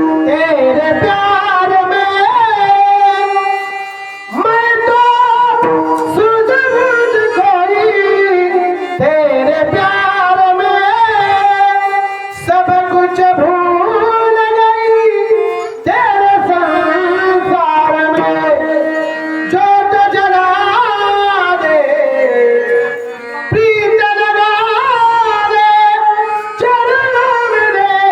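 A man singing a Marathi kirtan devotional song in long, ornamented phrases that bend and slide in pitch, with instrumental accompaniment. The voice pauses for breath briefly a few times.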